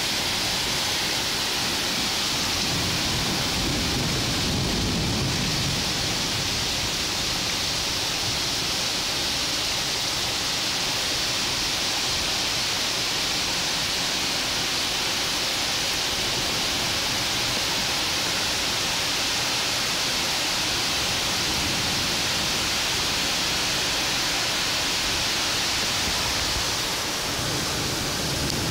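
Heavy downpour: a steady, even hiss of rain falling on the street, cars and trees, with a brief low rumble a few seconds in.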